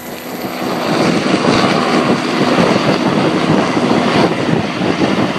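Loud aircraft engine noise, a dense steady roar that builds over about the first second and then holds.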